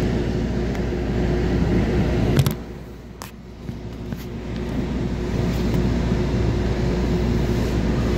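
Steady running noise of a moving commuter train heard from inside a passenger coach, with a constant low hum. About two and a half seconds in the level drops sharply with a few clicks, then builds back up over the next two seconds.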